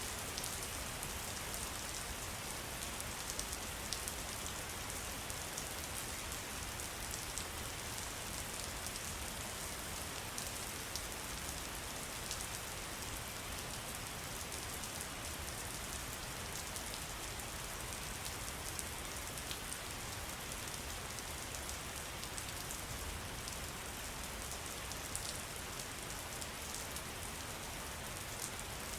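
Steady splashing of falling water, an even hiss with fine droplet patter on top.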